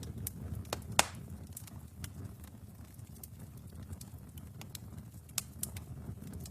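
Wood fire burning in a fireplace: a steady low rumble of flames with irregular sharp crackles and pops, the loudest about a second in.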